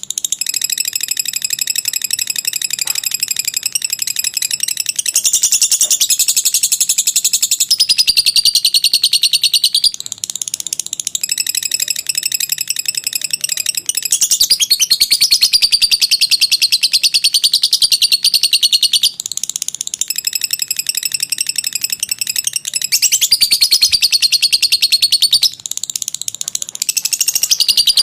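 A lovebird's long 'ngekek' chatter: a continuous, very rapid high-pitched trill going on in long phrases, with a few brief breaks.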